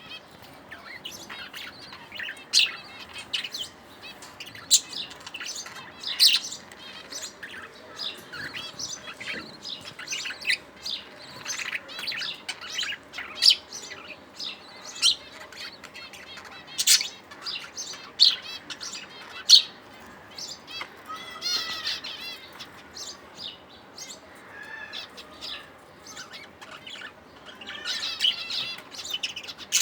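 Budgerigars chirping: a steady scatter of short, sharp, high chirps, with a stretch of rippling warble a little past the middle and busier chatter near the end.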